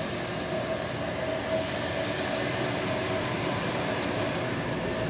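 Heavy truck engine running steadily, with a faint steady whine over the engine noise.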